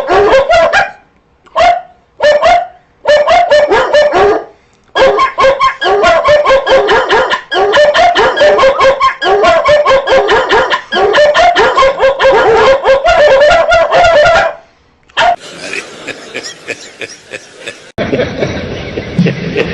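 Dogs barking loudly and repeatedly: a few separate barks at first, then a dense, unbroken flurry of barking that stops about three quarters of the way in. A different, noisier sound follows, then another change just before the end.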